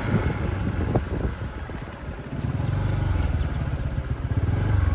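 Motorcycle engine running, easing off about two seconds in, then picking up again. A brief knock comes about a second in.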